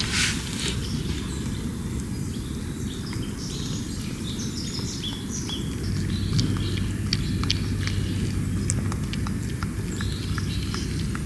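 Birds chirping over a steady low background rumble, with scattered sharp light clicks and a low hum starting about six seconds in.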